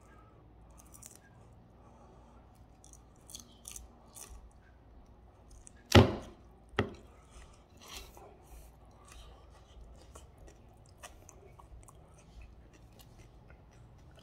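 Chewing and crunching of sugar-coated fried sweet potato (camote cue), with faint scattered crunches. About six seconds in come two sharp knocks a little under a second apart, the first much the loudest.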